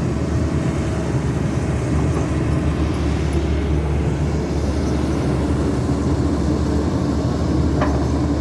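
Caterpillar 320D2 excavator's diesel engine running steadily under load as it digs heavy soil to load a dump truck.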